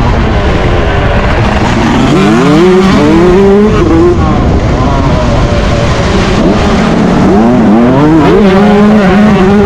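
Yamaha YZ125 two-stroke motocross engine at race pace, its pitch climbing hard about two seconds in and again near the end as the throttle is opened, holding a steady high note in between.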